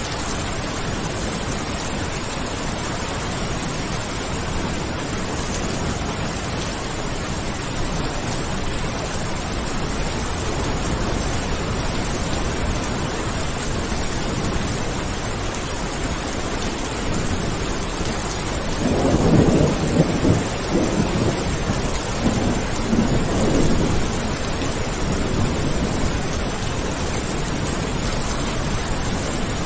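Steady rain falling, with a roll of thunder about two-thirds of the way through that rumbles for around five seconds before fading back into the rain.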